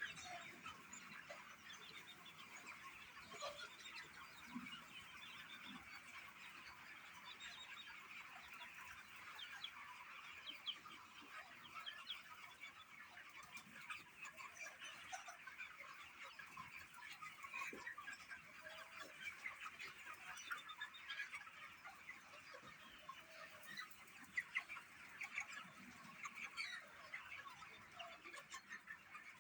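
Faint, continuous chatter of many birds calling at once, a dense mix of short fowl-like clucks and chirps.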